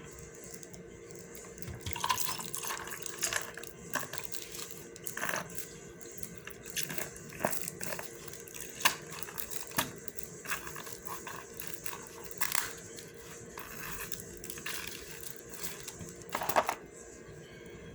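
Eating sounds close to the microphone: irregular chewing, lip smacks and short clicks, some sharper than others, over a faint steady hum.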